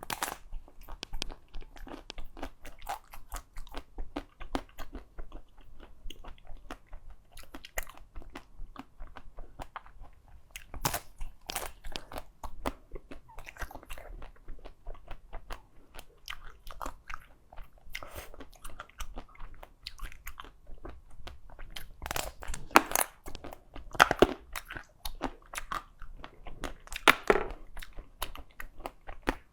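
Ice being bitten and chewed close to the microphone: a continuous run of sharp cracking crunches. The loudest bites come in a cluster near the end.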